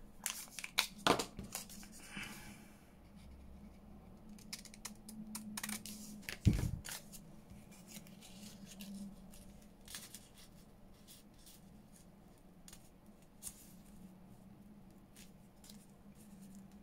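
Paper being ripped apart by hand: a run of short, crisp tearing crackles, densest in the first few seconds and then scattered, with one dull knock about six and a half seconds in.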